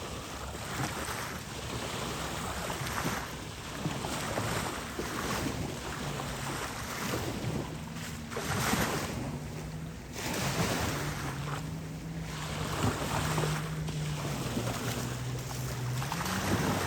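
Gusts of wind on the microphone and waves washing, with the low hum of a boat's motor on the water. From about six seconds in the hum shifts in pitch, dips, then rises near the end.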